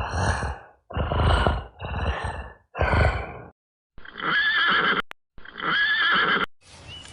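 Horse calling: four short rough blasts about a second apart, then two whinnies of about a second each with a quavering pitch.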